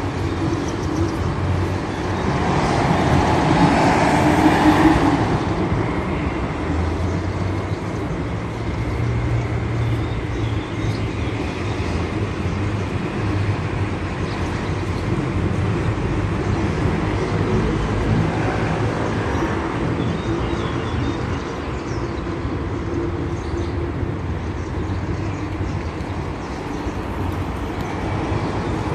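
Steady low rumble of vehicle traffic, swelling louder briefly a few seconds in.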